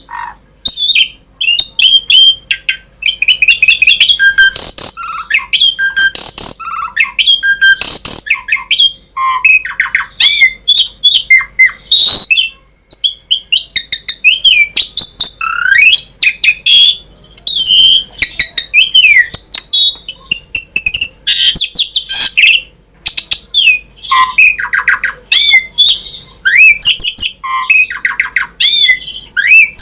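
Javan pied starling (jalak suren) singing a long, varied song of whistles, rising and falling glides, rapid trills and harsh squawks, in quick phrases separated by short pauses.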